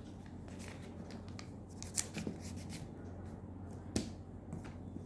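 A sheet of paper being folded and creased by hand: soft rustling with a couple of sharp paper crackles, about two seconds in and again about four seconds in.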